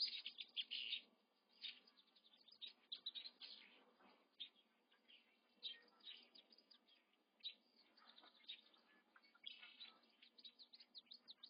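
Faint bird chirping: many short, high calls in quick irregular runs, busiest at the start and again near the end.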